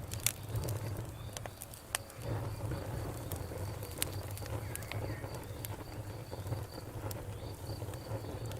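Wood campfire crackling and popping, with irregular sharp snaps over a steady low rush of flame. A faint, evenly repeating high chirp, like crickets, runs behind it.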